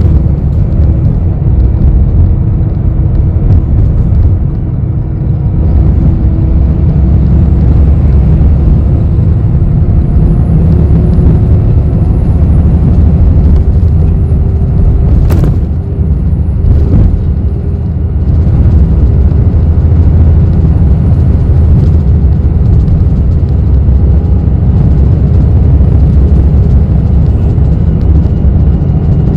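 Inside a moving city bus: a steady low rumble of engine and road noise, with a faint high whine wavering above it. A sharp knock rings out about halfway through, and a second one follows a second and a half later.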